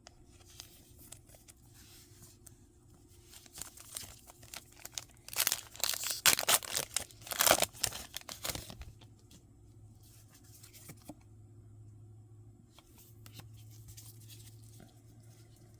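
A Pokémon card booster pack's foil wrapper being torn open and crinkled: light rustling, then about three seconds of loud ripping and crackling near the middle, then softer handling.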